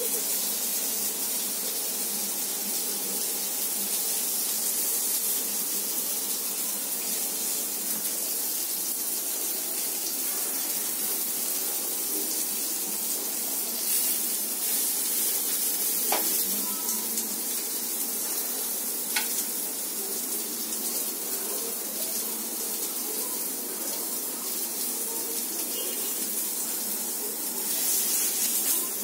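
Paneer tikka skewers sizzling on a flat griddle pan, a steady frying hiss, with a couple of sharp clicks partway through.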